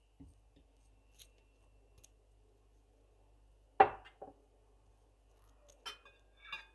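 A few sharp clicks and knocks from kitchen utensils being handled, the loudest just under halfway, followed by a smaller one. Two more come near the end, the last with a brief metallic ring.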